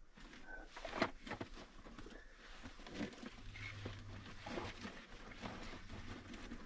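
Handling noise of camping gear being moved and put away: scattered light knocks and rustling, with a sharper knock about a second in and a short low hum a little past the middle.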